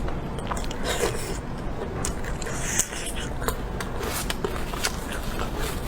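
A person biting and chewing food close to the microphone, with many small, irregular clicks of mouth and food sounds.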